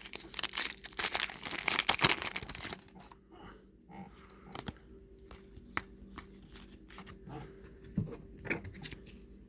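Foil trading-card pack torn open and crinkled for about three seconds, then quieter soft clicks and rustles of the cards being handled.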